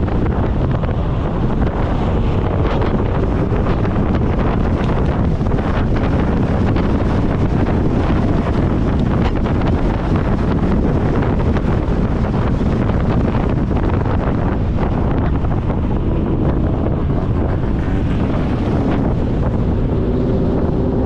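Heavy wind buffeting the microphone over a steady low rumble, likely from a running vehicle.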